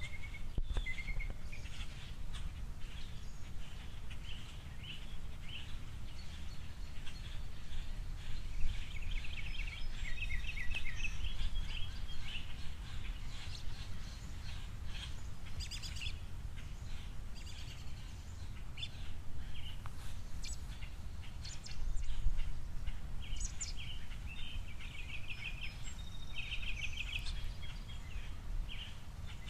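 Small songbirds chirping and twittering, with rapid trilled phrases now and then, over a steady low background rumble.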